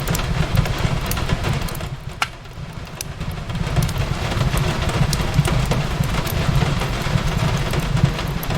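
Wood fire crackling with scattered sharp pops, one louder snap about two seconds in, over the steady hiss of rain and a low rumble.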